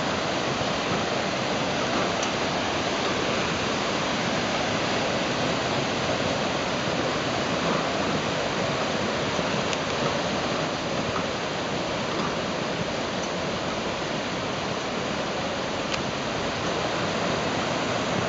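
Flash floodwater coming off a wildfire burn scar, rushing past in a steady, even rush of water.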